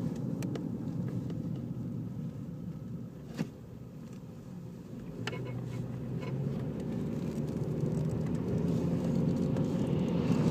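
Opel Astra H's Z18XER 1.8-litre four-cylinder petrol engine running with a steady low rumble, a sharp click about three and a half seconds in and another about two seconds later, then the sound slowly growing louder. No clear squeak stands out.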